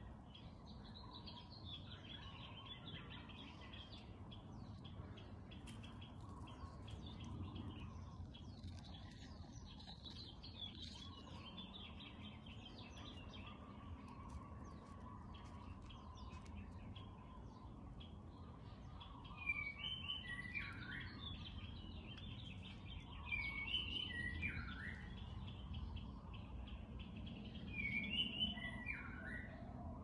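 Songbirds chirping and singing in a steady chatter. In the last third, one bird sings a louder short phrase of falling notes three times, about four seconds apart.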